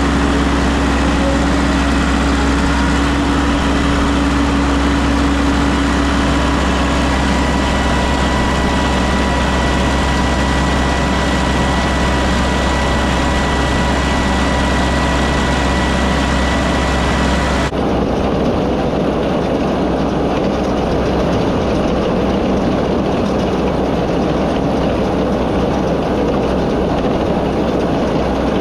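Tractor engine running steadily at constant speed. About two-thirds of the way through, the sound changes abruptly to a rougher, noisier engine sound.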